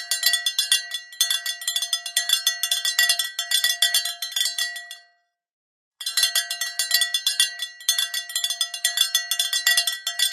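Cowbells clanking in rapid, irregular strikes with a steady ringing pitch, in two runs of about five and four seconds with a second of silence between them, as when bells hang on moving livestock.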